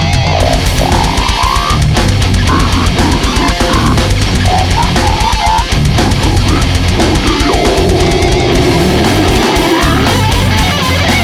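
Extreme metal recording: heavy distorted guitars over drum kit, loud and dense throughout, with notes that slide up and down above the riff.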